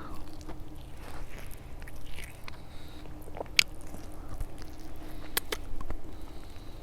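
A person chewing food close to the microphone, with wet mouth noises and two sharp clicks.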